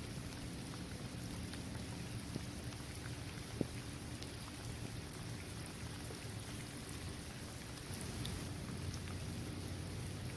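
Steady rain falling on a paved basketball court, trees and grass, with scattered individual drops pattering and one sharper drop tap about three and a half seconds in.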